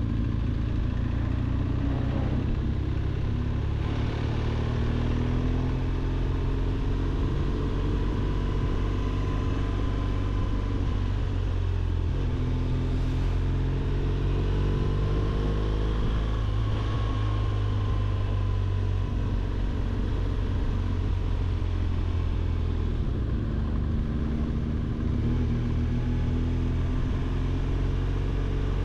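BMW R 1200 GS motorcycle's two-cylinder boxer engine running under way, its note rising and falling gently several times as the throttle is opened and eased, over a steady low rumble.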